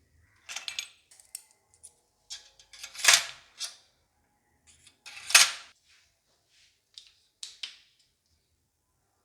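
Small plastic toy kitchen pieces and their packaging being handled: a string of clicks, taps and rustles, with two louder clatters about three and five seconds in.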